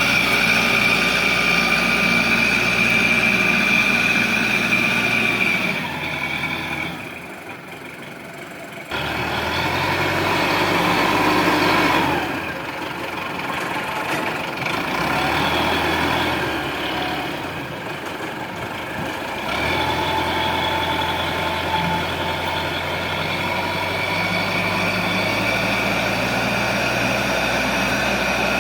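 Engines of a sand loader and an Isuzu Elf dump truck running. The sound drops away about six seconds in, comes back abruptly about three seconds later, and shifts in pitch a few times as the machines work.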